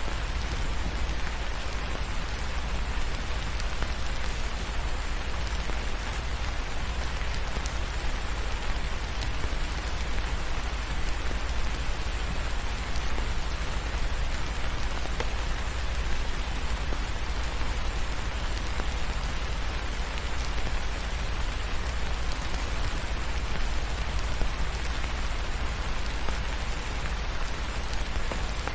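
Steady rain falling, an even hiss, over a deep, continuous low rumble.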